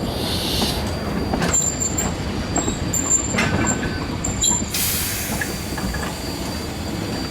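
Train hauled by the 1870s Rogers-built steam locomotive K 88 running, with a steady rumble, a thin high squeal coming and going through the middle, and a burst of hiss about five seconds in.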